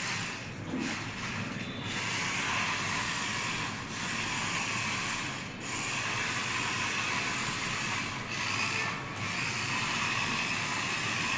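Small RC drift car running: its electric motor and gears whir steadily, easing off briefly a few times.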